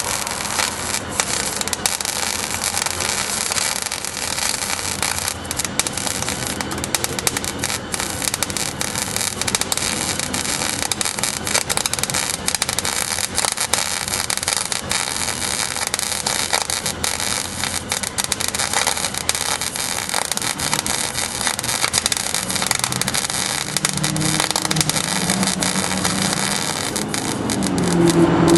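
Welding arc crackling steadily as new sheet metal is welded into a pickup's rusted-out cab corner. A low hum joins in near the end.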